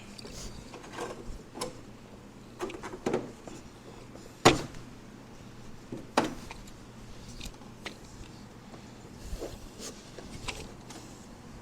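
Scattered clicks and clanks of tools and parts being handled, with two louder sharp knocks about four and a half and six seconds in.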